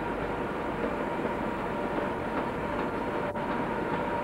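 Railway station ambience: a steady hum of electric trains standing at the platforms, with a thin steady whine running through it.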